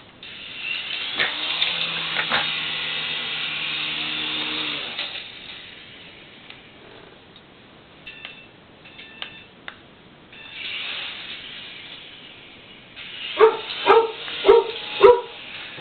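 A steady high whirring hiss runs for about five seconds and returns briefly later. Near the end a chihuahua barks about five times in quick succession, sharp and high-pitched.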